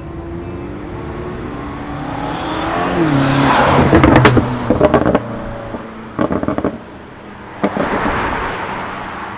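Modified car accelerating hard, its engine rising in pitch to a loud peak about four seconds in. Rapid exhaust pops and crackles follow in two bursts, and another loud burst comes near the end.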